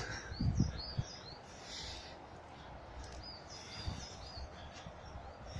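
Small birds chirping, short high calls in two spells, over a steady low background hum of outdoor noise, with a couple of soft low thumps about half a second in.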